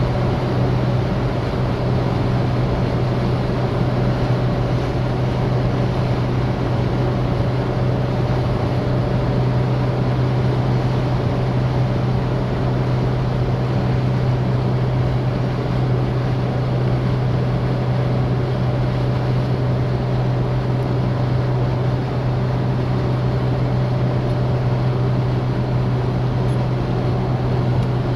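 Citroën DS driving at a steady speed: a constant low hum from its four-cylinder engine over steady road and wind noise.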